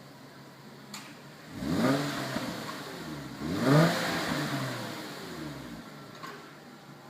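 Nissan Skyline GT engine idling, then revved twice, each time rising quickly in pitch and falling back to idle; the second rev is the louder and dies away more slowly.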